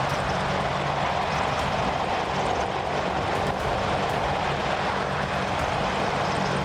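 Helicopter running steadily: a constant engine and rotor drone with a steady low hum underneath.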